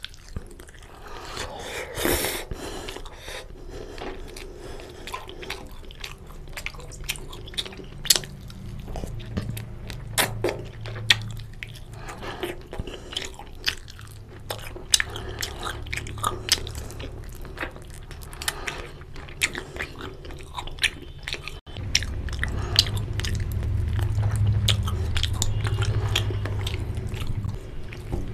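Close-miked chewing and biting of curry-soaked chicken on the bone with rice: wet mouth clicks and smacks with occasional crunches. A low rumble comes in underneath about three quarters of the way through.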